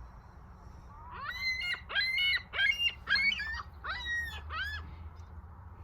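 Birds calling in a quick series of about seven short, high, pitched calls while squabbling over scraps of food.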